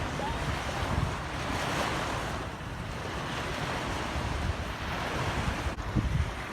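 Sea surf washing on a beach, a steady rushing noise, with wind buffeting the microphone in low gusts.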